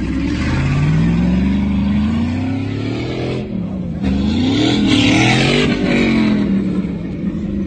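Motor vehicle engine revving: its pitch climbs for about three seconds, drops, climbs and falls again, then holds steady near the end.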